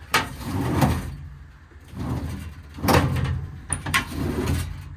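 Steel service-body drawers being slid in and out on their runners, about three rumbling strokes each ending in a clunk. A drawer is catching on the compartment's weather stripping.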